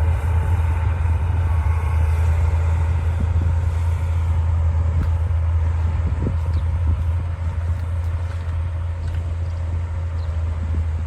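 D60 bulldozer's diesel engine running steadily, a deep low drone, with a few light knocks.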